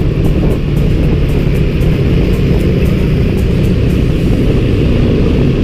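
Motorcycle engine running while riding, mixed with wind rushing over the rider's microphone in a steady loud rumble.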